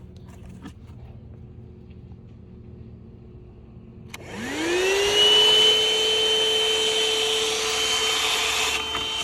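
Corded ThisWorx handheld car vacuum switched on about four seconds in: its motor whine rises quickly as it spins up, then runs steadily with a high-pitched whine over a rushing of air.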